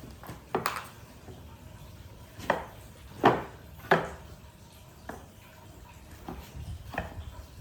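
A series of about seven irregular sharp knocks and clatters of hard objects, the loudest a little past three seconds in.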